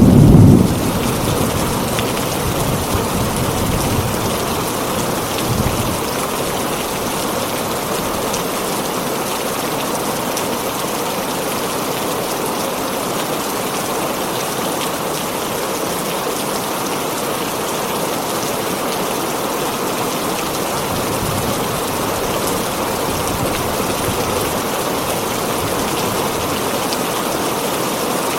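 Heavy rain on a tin roof: a steady, dense hiss of drops. A loud low rumble of thunder dies away in the first half second, and a smaller low rumble comes about six seconds in.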